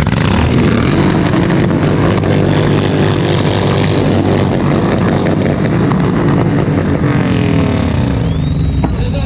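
Motorcycle engines running loudly through their exhausts, with the pitch falling about seven to eight seconds in.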